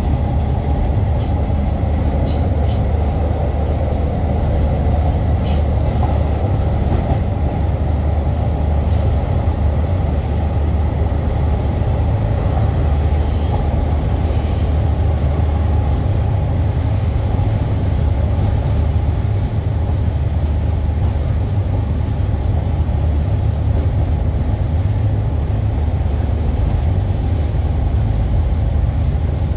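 Steady running noise of a passenger train in motion, heard from aboard: the carriage and its wheels on the track make a deep, even sound with no let-up.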